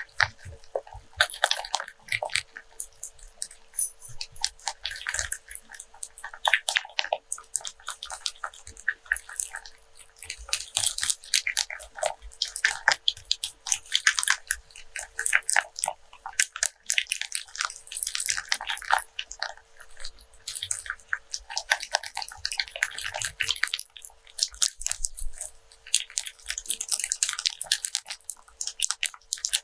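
Rope rubbed, twisted and scratched close to the microphone, giving dense crisp crackling that comes in bunches with short lulls.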